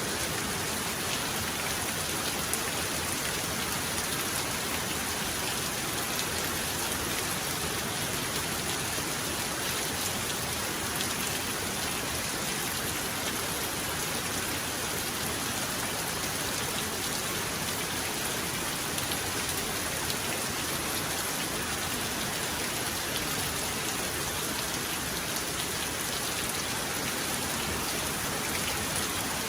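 Heavy rain falling steadily, an even hiss of drops on a surface without let-up.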